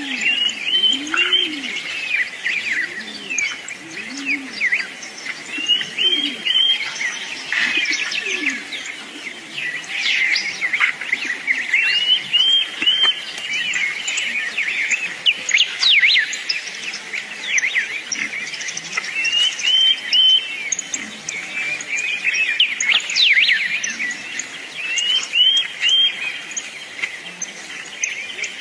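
Sparrow chicks chirping continuously: a dense chatter of many high-pitched chirps, with a short three-note chirp figure recurring every few seconds.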